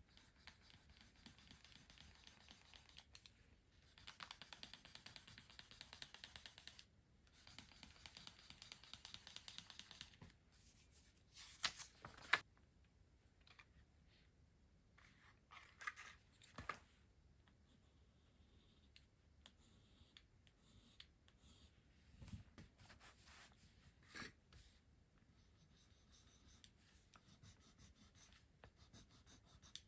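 Close-miked handling of stationery and its packaging: two long stretches of scratchy rustling, then several sharp clicks and taps.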